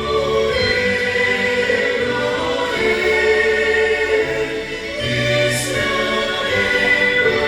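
Choir singing slow sacred music in held chords over a steady low bass.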